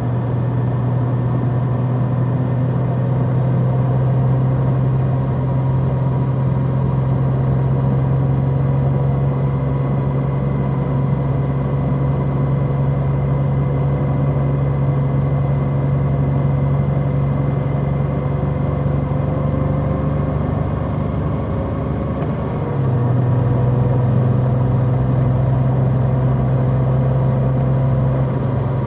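Large motorcycle engine running steadily under way, its pitch creeping up slowly. About 23 seconds in it dips briefly and steps down in pitch, then pulls on again.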